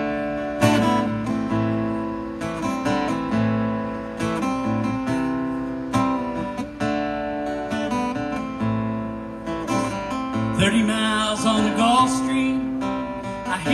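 Acoustic guitar playing a song intro, with chords struck and ringing in a steady rhythm. In the last few seconds a wavering melody line joins over the guitar.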